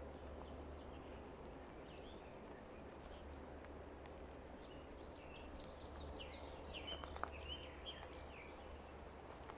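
Faint forest ambience with a low steady hum. About halfway through, a songbird sings one phrase of quick notes that fall in pitch over about four seconds.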